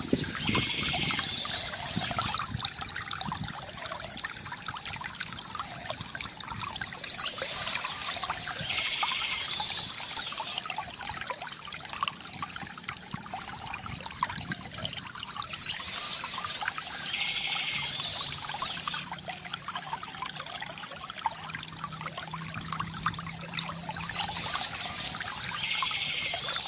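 Small stream trickling and babbling over stones, with a short burst of birdsong returning about every eight or nine seconds.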